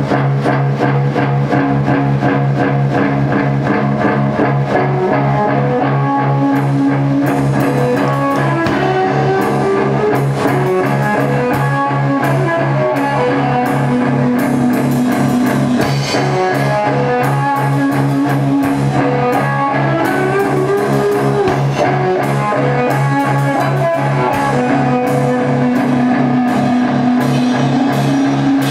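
Live rock band playing an instrumental passage: electric guitars and bass over a steady drum beat, with a sustained low drone and a guitar melody moving above it.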